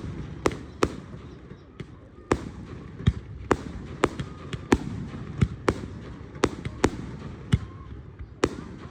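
Fireworks going off: a run of sharp bangs at irregular intervals, roughly two a second, over a low steady rumble.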